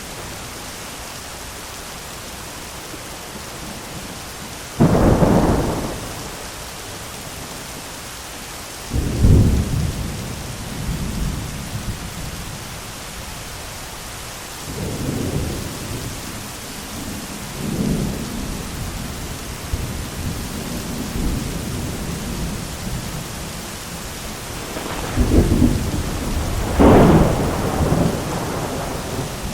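Thunderstorm: steady heavy rain with thunder. A sharp crack of thunder about five seconds in, another about nine seconds in followed by rolling rumbles, and a double crash of thunder near the end.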